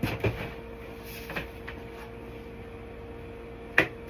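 Three short knocks or clacks from handling, the loudest near the end, over a steady faint hum.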